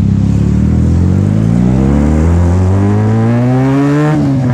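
Benelli TNT 300's parallel-twin engine through a very loud free-flow slip-on exhaust, accelerating with the revs climbing steadily for about four seconds, then dipping briefly near the end.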